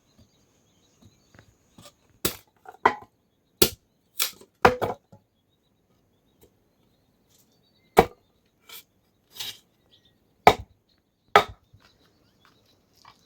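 A series of about ten sharp chopping strikes, irregularly spaced, coming in small groups with pauses between them.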